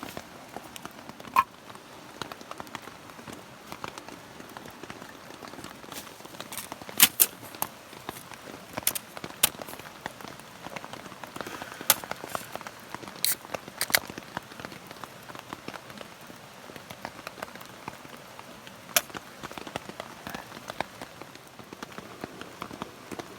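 Steady rain falling, with irregular sharp clicks and taps scattered through it, a cluster of them about seven seconds in.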